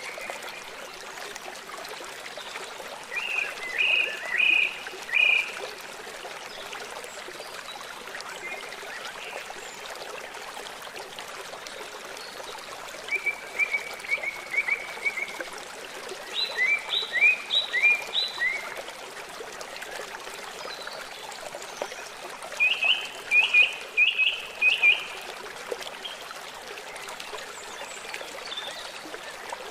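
Steady rush of a forest stream, with a bird singing four short phrases of quick repeated notes over it.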